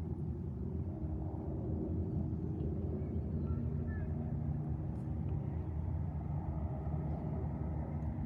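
Steady low outdoor rumble, with a few faint short chirps about three to four seconds in.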